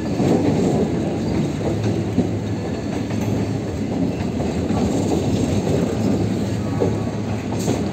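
Passenger express train running on the rails: a steady rumble with the clatter of wheels over the track.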